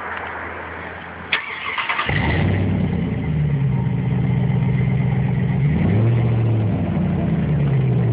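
2006 Dodge Ram's 4.7-litre V8 cranked on the starter and catching about two seconds in, then idling loud through an exhaust with no muffler, only a resonator, the pipe ending before the rear axle. The idle pitch wavers a little as it settles.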